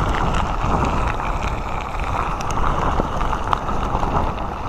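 Typhoon-strength wind blowing across a phone's microphone: a steady, heavy rushing noise with a few faint ticks.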